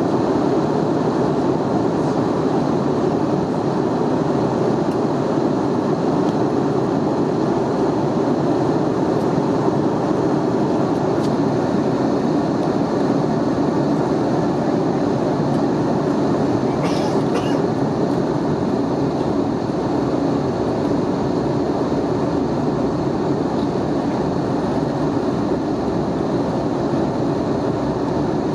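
Steady cabin rumble of an Airbus A320neo with Pratt & Whitney PW1127G geared turbofans, on approach for landing: engine and airflow noise, even and unbroken.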